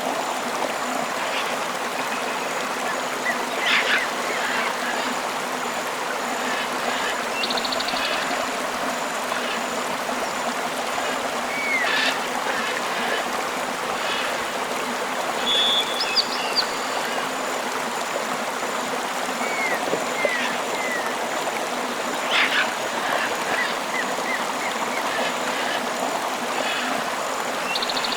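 Flowing river water rushing steadily, with short bird chirps and trills breaking in every few seconds and a faint high pulsing tone running under it all.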